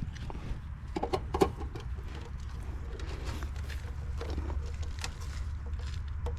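Steady low mechanical hum with scattered light clicks and taps, the sound of hands and tools working on an old Rheem heat pump unit.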